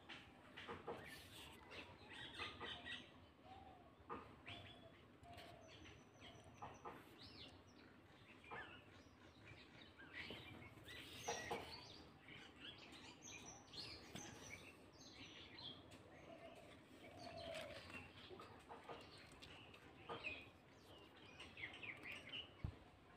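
Small birds chirping and calling, many short high calls scattered throughout, with a few brief knocks.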